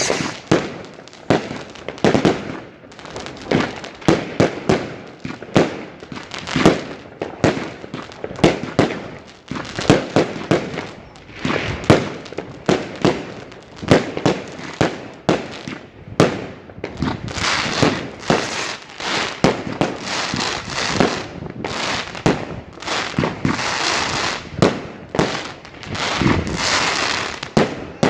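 Large New Year's fireworks display: a rapid, irregular string of bangs, joined about halfway through by dense crackling.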